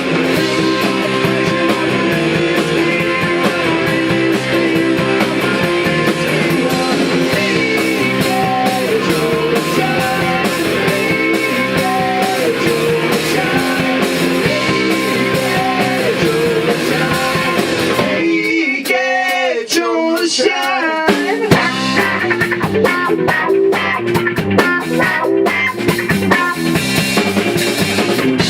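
Rock band playing loud in rehearsal, electric guitar over bass and drum kit. About two-thirds of the way through, the low end and the full drumming drop out, leaving a thinner part with wavering, bending pitches.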